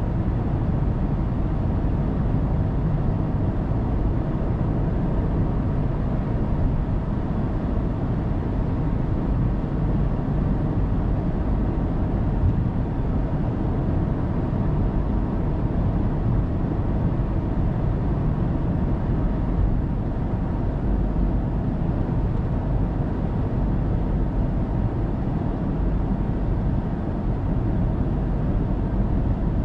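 Steady road and tyre noise with engine hum of a car cruising on an expressway, picked up by a dashcam inside the car; an even low rumble with no change.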